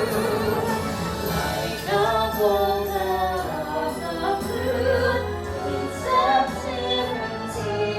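Women singing a slow song together over recorded backing music.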